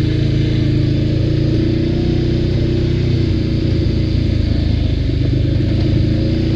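ATV engine running steadily while being ridden.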